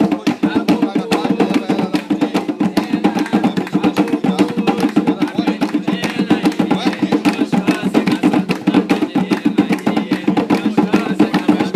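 Drums and percussion beating a fast, steady rhythm while a group of voices sings an Umbanda ponto (sacred chant).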